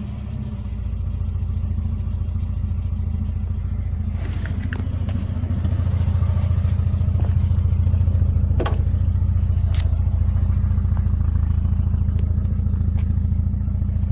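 Classic car engine idling steadily, picking up a little in loudness about halfway as it is heard nearer the tailpipe. A few sharp clicks sound over it around the middle.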